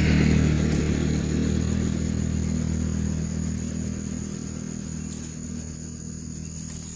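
A motor vehicle's engine running with a steady low hum, slowly fading away.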